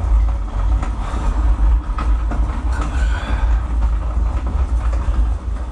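Edgwick MK1 metal lathe running, a loud steady low rumble with a rattling haze above it, spinning the part in the chuck while it is indicated true; it cuts off near the end.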